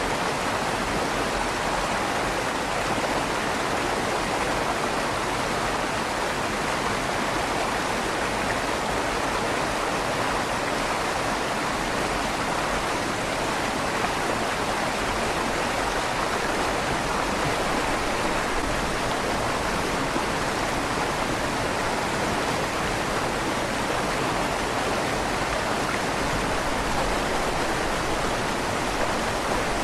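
River water rushing steadily beneath a stone bridge, with a slight echo off the stone walls of the tunnel.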